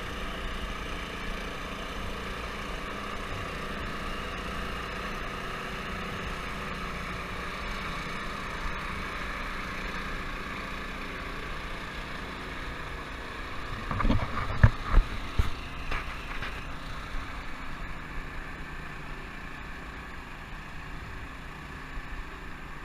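An engine running steadily with a constant drone, with a short cluster of knocks and thumps about two-thirds of the way through.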